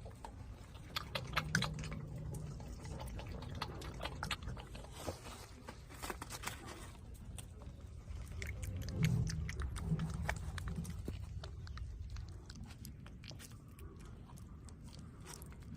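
A zoo animal chewing and biting into food, with many irregular crunches and clicks. Low humming sounds come in briefly twice, the louder one about nine seconds in.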